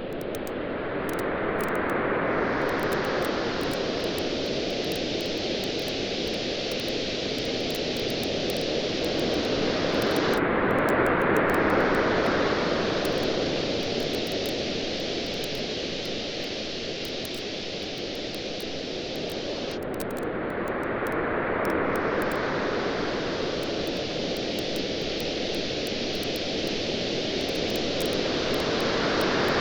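Beach waves washing in and out as a steady rush that swells about every nine or ten seconds, three times here. Faint crackles from a campfire tick over it throughout.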